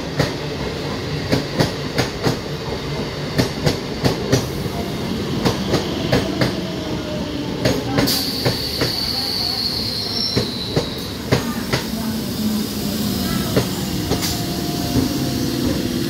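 Electric multiple-unit local train rolling slowly into a station: its wheels click and clack irregularly over the rail joints. A high squeal falls in pitch about eight seconds in, and a low steady hum runs under the later part.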